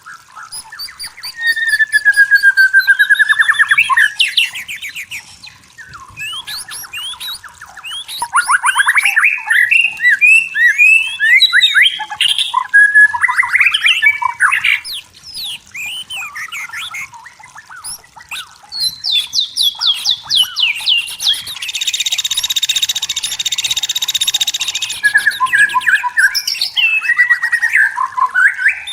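White-rumped shama singing a loud, varied song of clear whistles, rapid trills and sweeping notes, with a harsh buzzing rattle about two-thirds of the way through.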